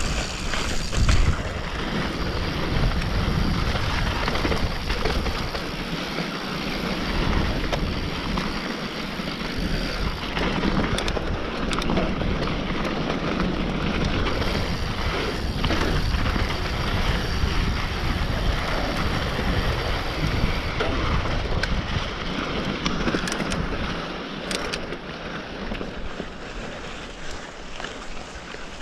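Mountain bike running fast downhill on a trail: wind rushing over the microphone and tyres rolling over the dirt, with a few short clicks and rattles from the bike.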